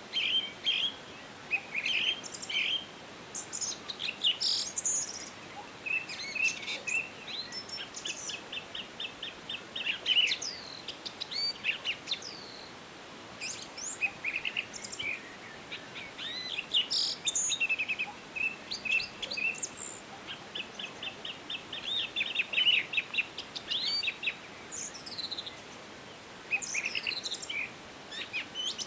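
Several songbirds singing and calling over one another in a forest, with frequent short chirps and whistled notes. Twice, about a quarter of the way in and again past the middle, a fast trill of rapidly repeated notes runs for a couple of seconds. A faint steady hiss lies underneath.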